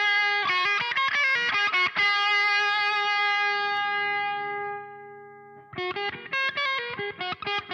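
Distorted electric guitar played through an Ibanez Metal Charger distortion pedal. A few quick picked notes lead into a chord left ringing and fading out for about three seconds. Near the end a fast, choppy riff of short muted notes starts.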